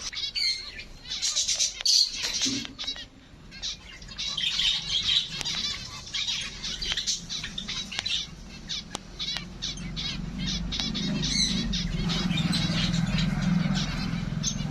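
A flock of caged aviary birds chirping and squawking all together, with wing flaps and sharp clicks. A low steady hum comes in and grows over the last few seconds.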